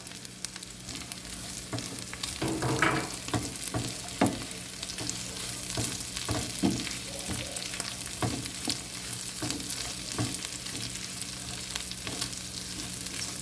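Sausage and onion sizzling in hot oil in a frying pan, stirred with a utensil that knocks and scrapes against the pan now and then.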